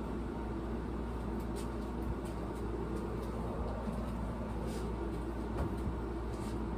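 Relite Airmaster commercial ceiling fan running steadily on high speed: a constant motor hum with rushing air, and a few faint ticks.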